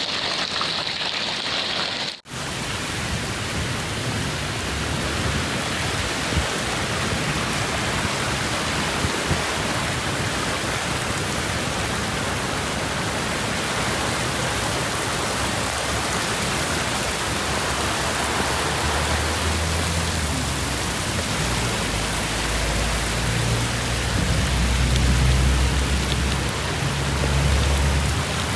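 Steady rain falling, an even hiss of rain on surfaces, with a low rumble joining in during the last third.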